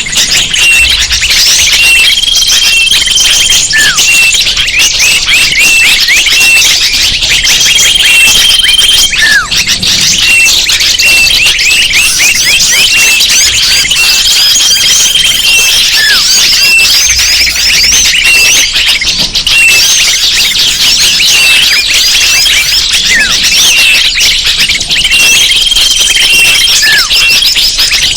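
Bird-lure recording of a dense, noisy chorus of many small birds chirping and twittering, with a held high whistle returning about every six seconds and a few lower falling whistles.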